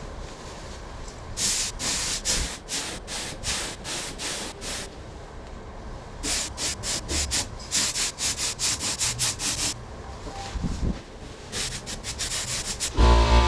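Paint spray gun hissing in many short bursts as the trigger is pulled again and again, laying a base coat, in three runs of strokes. A loud steady hum cuts in just at the end.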